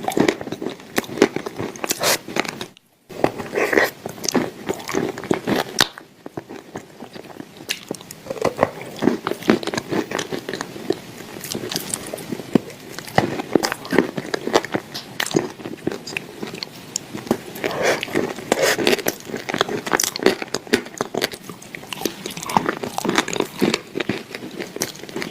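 Close-miked biting and chewing of crunchy edible clay: dense, irregular crunches and crackles, broken by a brief dead gap about three seconds in.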